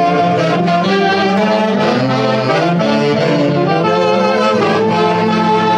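Live band music led by saxophones with brass, playing a melody of held notes over a steady accompaniment.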